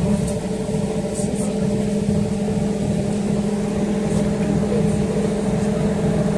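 City bus running steadily, heard from inside the passenger cabin: a constant engine and drivetrain hum with a few light rattles.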